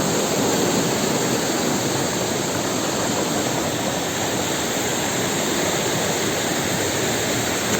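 Steady rushing of a waterfall, its falling water making a loud, even roar.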